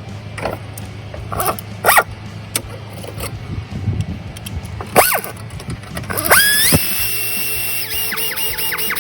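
Power drill driving a 10mm socket to tighten fan shroud bolts: a few clicks and knocks of handling, then about six seconds in the drill whines up to speed and runs steadily, pulsing on and off several times near the end as the bolt is snugged down.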